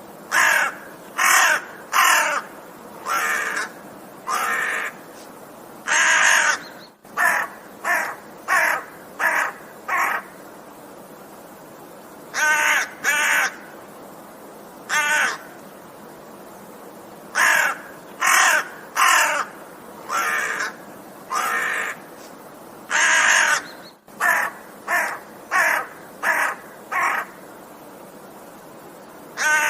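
Crow cawing over and over: harsh, loud caws in quick runs of two to five, with a pause of a second or two between runs.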